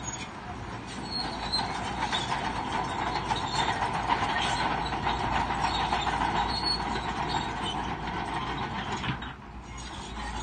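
Crawler bulldozer working: engine running under load with squealing, clanking steel tracks. The noise eases off briefly about nine seconds in.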